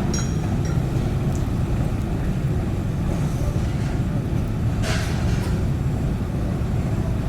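Diesel engine of heavy construction machinery running steadily, with a few metallic clinks near the start and a short burst of hiss about five seconds in.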